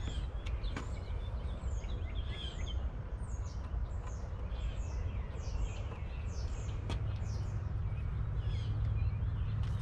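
Wild birds chirping over and over in short falling notes, over a steady low rumble of outdoor background noise. Two sharp clicks, one about a second in and one about seven seconds in.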